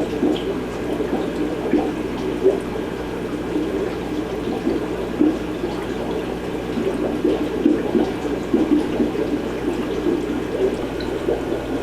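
Aquarium filtration running in a room full of tanks: continuous bubbling and trickling water over a steady low hum.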